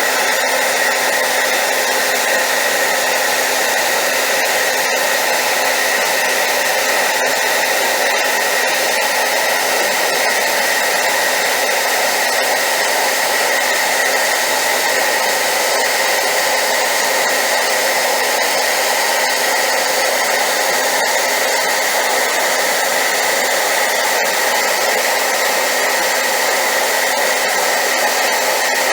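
Hair dryer running steadily at high power, a loud even whooshing hiss with a constant motor hum on top, used as white noise.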